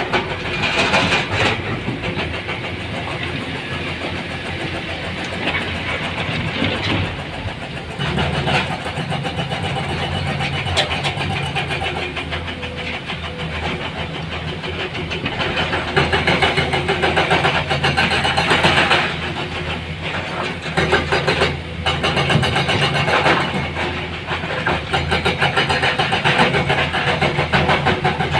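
Heavy-equipment diesel engine running with a fast, steady pulsing beat. It grows louder about eight seconds in and again about halfway through, and falls back briefly near the three-quarter mark, as the machine works under changing load.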